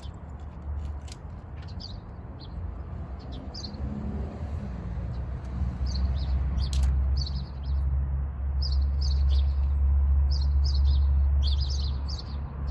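Small birds chirping repeatedly in short high calls, over a low steady rumble that grows louder about halfway through.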